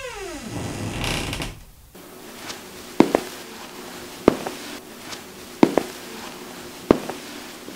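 A sliding musical tone glides down and fades out in the first second or so. Then come slow, measured footsteps on a hard floor, about one every 1.3 seconds, each a sharp click with a lighter click just after it.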